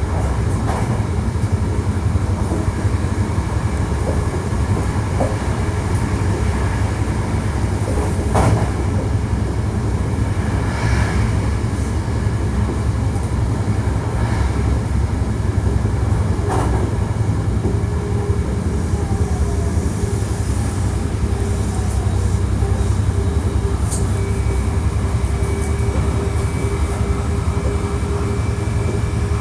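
Hankyu 1300 series electric train running at speed, heard from inside the car: a steady low rumble of wheels on rail with a few sharp clicks and knocks. A steady motor whine comes in over the second half.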